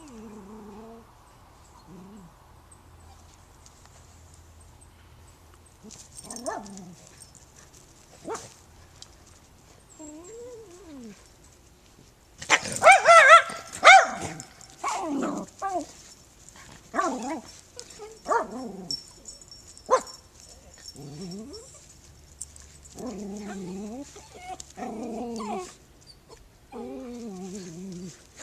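Dog whimpering and whining in short, sliding calls on and off, with a loud burst of high yapping about halfway through.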